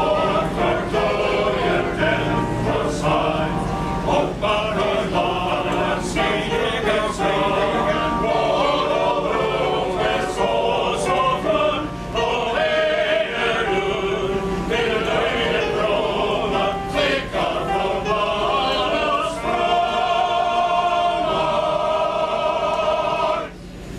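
Male choir singing, holding chords together; the song ends near the end.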